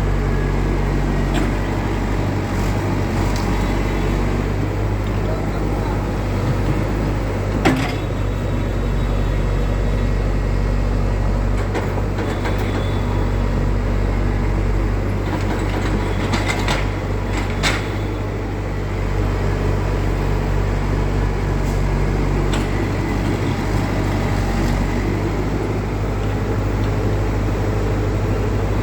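Tata EX70 Prime excavator's diesel engine running steadily, with a few sharp knocks: one about a third of the way in and two more just past the middle.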